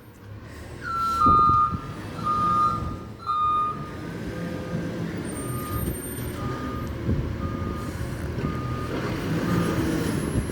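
A CNG garbage truck's backup alarm beeping as it reverses, sounding unusual: a steady series of single-pitch beeps a little faster than one a second, the first three louder and longer, over the low running of the truck's engine.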